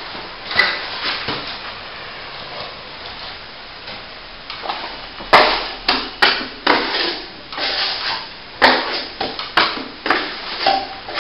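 Steel plastering trowel scraping up and working plaster compound, with irregular scrapes and a run of sharp metallic knocks from about halfway through.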